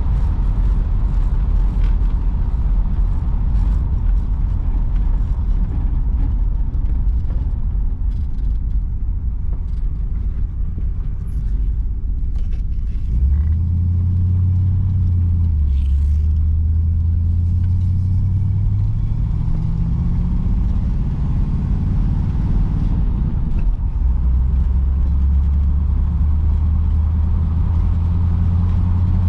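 V8 engine of a 1953 Oldsmobile Super 88 running while driving, a steady low drone. Its note steps up partway through, climbs further, then drops back near the end as speed changes.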